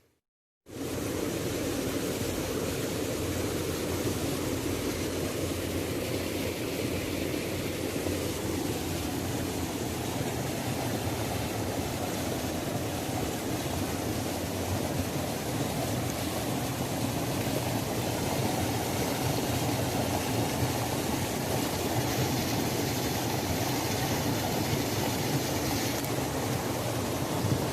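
Waterfall: a steady rush of falling water that cuts in suddenly after a brief silence at the start.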